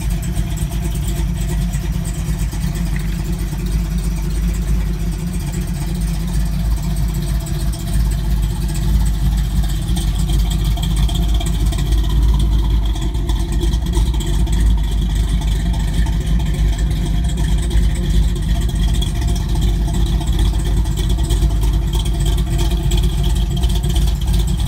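1966 Chevy II Nova's engine, fitted with headers, running steadily at idle; the owner thinks one of the headers has an exhaust leak.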